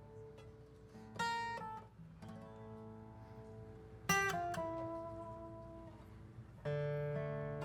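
Acoustic guitar and piano playing a slow hymn introduction: three new chords struck about a second, four seconds and near seven seconds in, each left ringing and fading.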